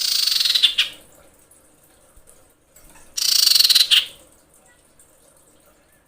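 Female common iora giving two rapid trilled calls about three seconds apart, each lasting about a second and ending slightly lower. This is the female's call to a male when she is in breeding condition.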